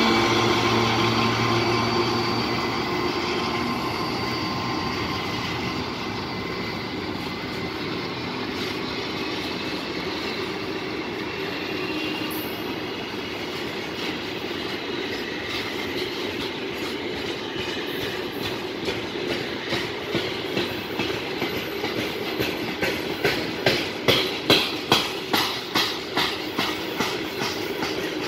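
Freight train wagons rolling past, their wheels clicking over the rail joints in a regular rhythm that grows louder and sharper near the end. At the start the 2TE116 diesel locomotive's engine drone fades away.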